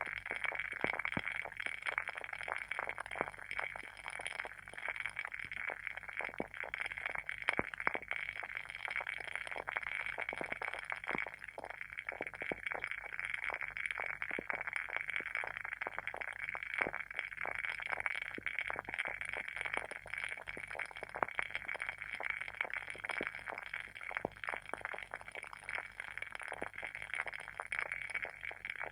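Wooden wick of a WoodWick candle burning, crackling with a dense, unbroken run of small pops and snaps like a tiny campfire.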